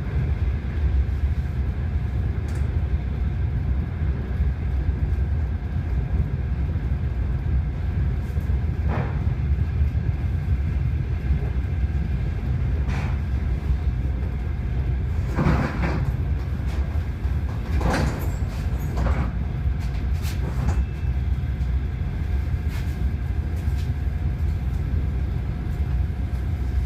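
Suburban electric train running, heard from inside the carriage: a steady low rumble with a faint steady hum, broken by occasional sharp clicks and knocks, most of them grouped about fifteen to twenty seconds in.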